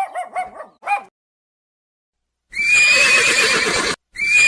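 A puppy gives several quick, high yips in the first second. After a short pause comes a loud, harsh, wavering squeal of about a second and a half, and then the same squeal again.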